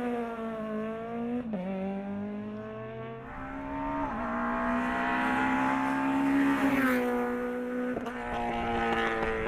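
Race car engine at high revs on a hill-climb run, its pitch climbing and then dropping sharply at each of three gear changes. It is loudest just before the last shift.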